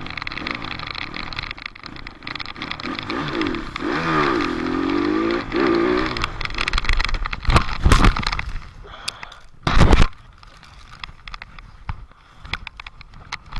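Dirt bike engine revving up and down as it is ridden, its pitch rising and falling repeatedly. About eight and ten seconds in come two loud, brief bursts of noise, and then the engine is quieter.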